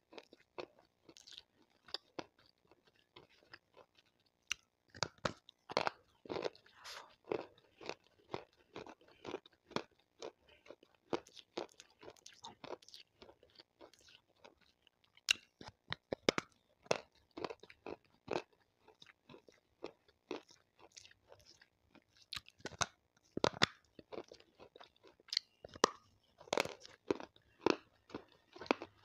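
Water-soaked slate stone being bitten and chewed close to a microphone: irregular sharp crunches, several a second, with louder clusters of bites now and then.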